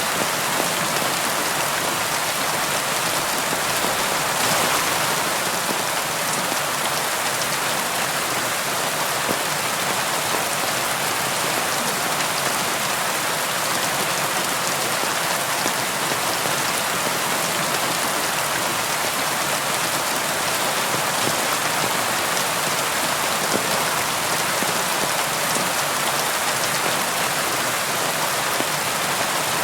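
Steady rainfall, a dense even hiss of raindrops pattering on a surface, with a slight swell about four seconds in.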